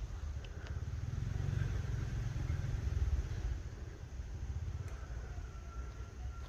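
Low, uneven rumble that swells about a second and a half in, then eases after three and a half seconds.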